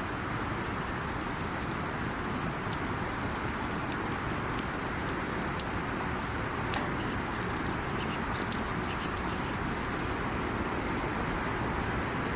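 Wood campfire burning with a steady low rush, and a run of sharp crackles and pops from about three seconds in, roughly two a second, loudest in the middle.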